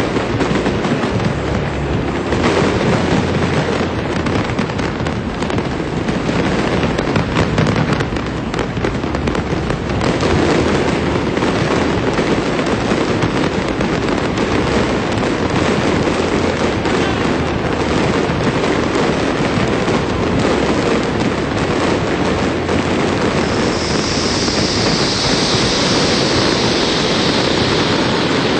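Large fireworks display going off in a dense, continuous barrage of bangs and crackles, with the separate bangs merging into a steady roar after about ten seconds. A high hiss joins in near the end.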